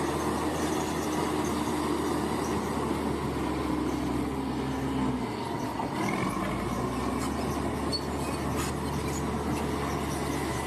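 Large crawler bulldozer working: its diesel engine runs steadily under the metallic squeal and clatter of its steel tracks. The engine note dips briefly about five seconds in, then picks up again.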